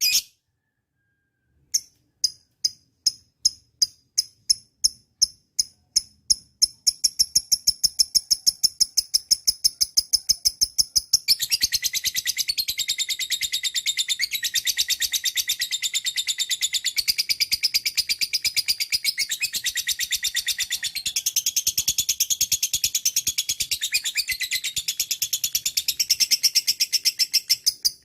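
Lovebird chattering: separate sharp high chirps that come faster and faster, running together into a rapid trill after about seven seconds, then from about eleven seconds a long, dense, high-pitched chatter without a break until it cuts off at the end.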